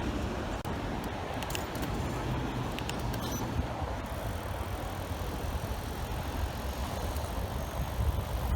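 Wind rumbling on the microphone of a bicycle-mounted camera while riding along a city street, with road and traffic noise and a few light clicks a second or two in.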